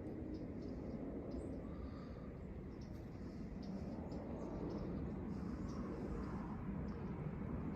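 Low, steady rumble of fighter jets passing overhead, swelling slightly toward the middle, with short high chip notes of small birds scattered throughout.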